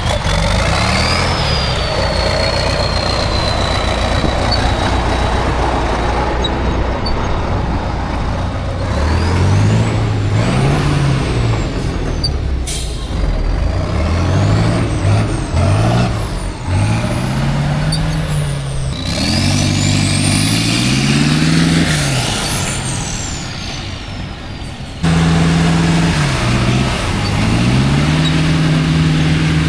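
Heavy off-road competition truck's diesel engine revving up and down again and again under load, with a high whine rising and falling along with the revs. It gets suddenly louder near the end.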